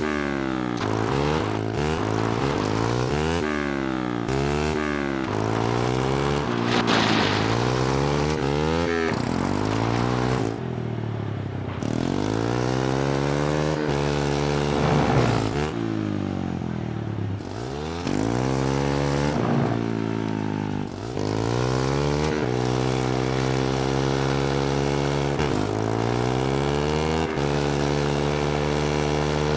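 Mini bike's small engine revving up and down again and again, with a few short drops in speed, then running at a steadier speed over the last several seconds.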